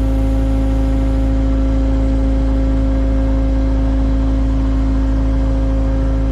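An engine running steadily at a constant speed: an even low rumble with a steady hum on top that doesn't rise or fall.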